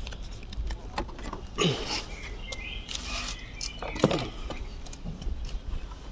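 Hand tools clinking and knocking against metal as a spanner works around the starter motor bolts, in scattered irregular clicks. Two short falling-pitch sounds cut in, the louder near the middle.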